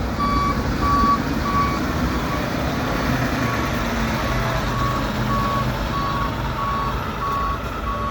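A truck backup alarm beeping steadily, about one and a half beeps a second, on the hi-rail truck powering a railroad tie work train. Under it is the low rumble of the work train's freight cars rolling past.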